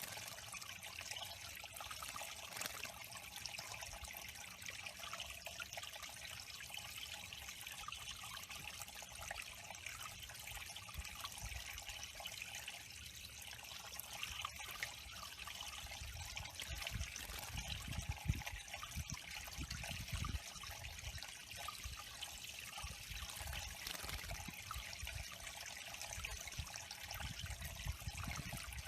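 Water trickling steadily into a small backyard bird pond, with irregular low rumbles joining in the second half.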